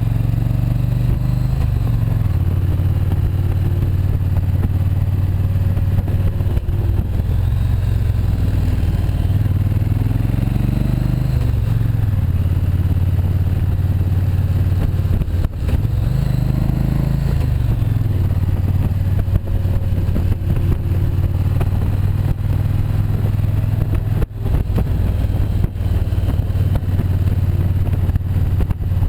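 Motorcycle engine running on the move, its pitch dipping and rising several times as the throttle is rolled off and back on through the bends.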